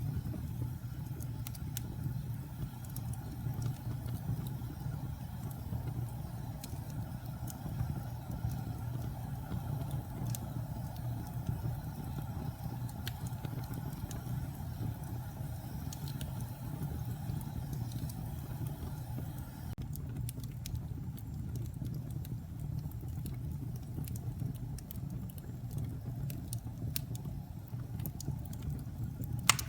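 Wood fire in a fireplace burning with a steady low roar and scattered crackles and pops, one sharper pop near the end.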